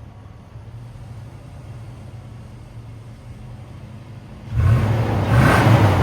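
2008 Toyota Tundra pickup engine idling cold just after a cold start. About four and a half seconds in it is revved, and the engine note rises and falls in pitch.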